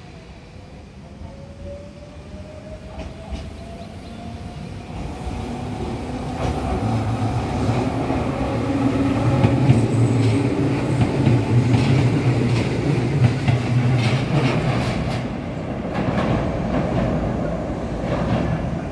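Tobu 8000 series electric train pulling away: the traction motors whine, rising in pitch as it accelerates. Then comes a loud rumble and hum with rapid clicking of wheels over rail joints as the cars pass close, easing slightly as it draws away near the end.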